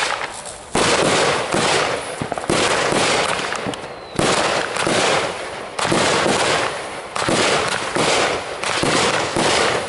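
Consumer fireworks going off in quick succession: about a dozen sharp bangs roughly a second apart, each dying away before the next.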